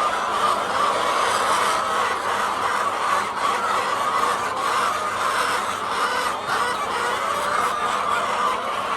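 A flock of many hens clucking together in a steady, dense chorus.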